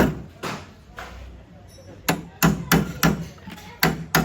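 Hammer blows on car body sheet metal during panel denting: about nine sharp strikes in uneven groups, each with a short metallic ring.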